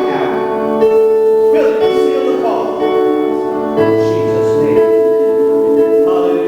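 Worship music played on a keyboard: long, held chords that sustain and change every second or so.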